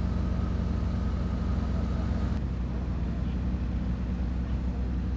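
Folkrace cars' engines idling steadily, a low even hum.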